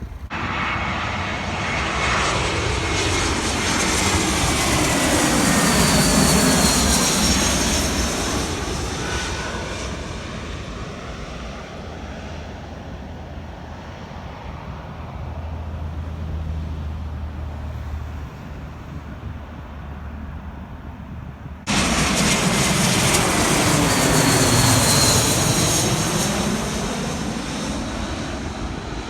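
Airplane engines passing close overhead: the noise swells, sweeps down in tone and fades over about ten seconds. Near the end it jumps abruptly to another loud pass of the same kind.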